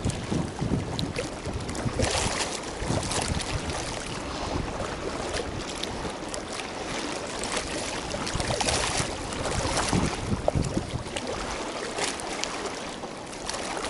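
Wind buffeting the microphone, a steady rushing noise that swells in gusts a couple of seconds in and again near the two-thirds mark.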